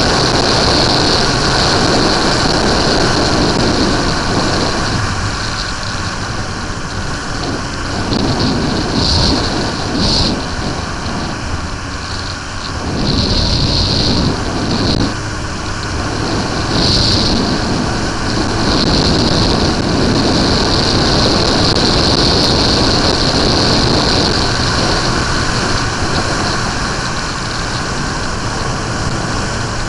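Suzuki GSX-R 1100's inline-four engine running as the motorcycle is ridden on the road, mixed with a steady rush of wind noise. The level dips briefly a few times.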